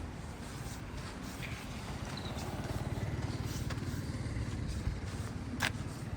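Outdoor ambience with a steady low rumble, like distant traffic, that swells a little about two seconds in, with a sharp click near the end.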